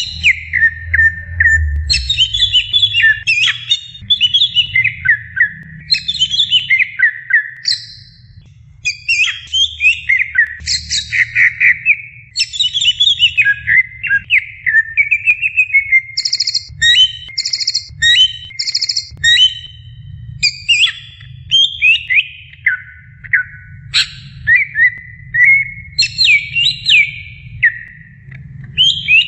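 Cucak ijo (green leafbird) singing a long, varied song of quick whistled phrases, pitch glides and rapid chattering trills, with brief pauses between phrases.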